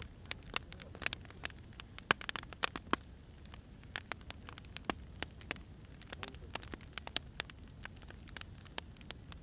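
Wood fire crackling: irregular sharp pops and snaps of burning firewood over a low, steady rumble of the flames.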